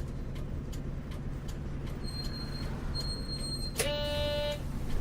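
Isuzu U-LV224N bus's 6QB2 diesel engine idling steadily, with regular faint ticking about twice a second. About four seconds in, a short electronic buzzer tone sounds sharply for under a second.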